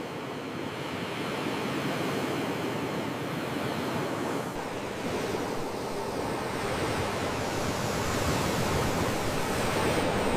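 Sea waves washing onto the shore in a steady rush of surf that swells gradually toward the end, with a deeper rumble joining about halfway through.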